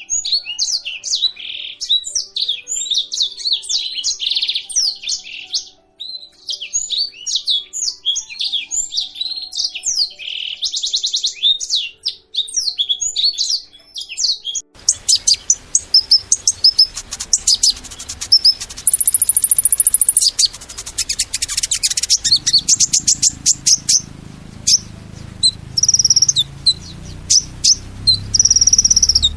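Small birds chirping and trilling in quick, high-pitched calls. About halfway through, the sound switches abruptly to another recording, where fast repeated chirps and trills sit over a steady hiss and a low rumble.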